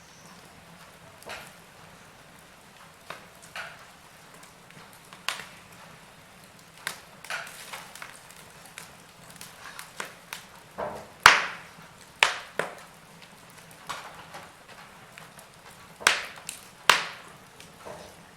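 Wood fire crackling in a fireplace: irregular sharp pops and snaps over a low steady hiss, the pops coming more often and louder in the second half.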